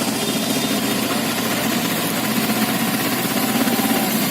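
A vehicle engine running steadily, a continuous low drone with vibration.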